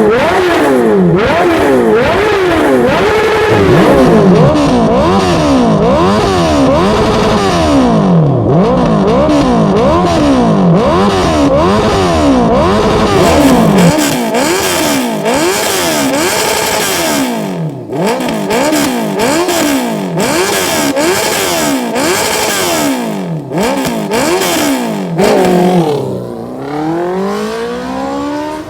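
Honda CB650R's inline-four engine revved repeatedly through an aftermarket full exhaust system, its pitch rising and falling about once a second. Near the end the revs drop low and climb again.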